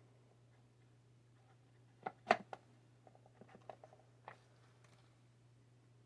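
Parts of a 3D printer kit being handled. A few light knocks come about two seconds in, the loudest just after them, then a run of small clicks and taps, all over a faint steady low hum.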